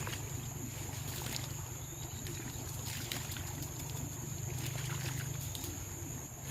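Water splashing and trickling in short irregular bursts as small fish are released back into the water, over a steady high insect drone.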